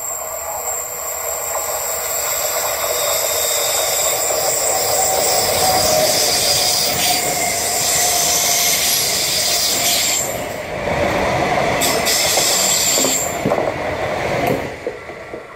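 Rodalies electric commuter train passing close by at speed: the rush and rumble of wheels on rail builds over the first few seconds, with a steady wheel squeal. Near the end a few sharp clacks come as the last bogies pass, then the sound falls away quickly.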